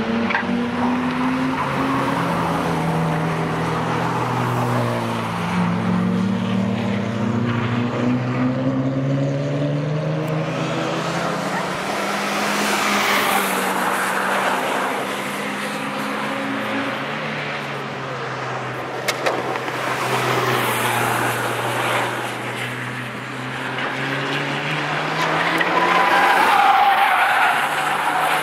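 Several cars driven hard on a race track, their engine notes rising and falling in pitch as they accelerate and lift off, with tyres squealing.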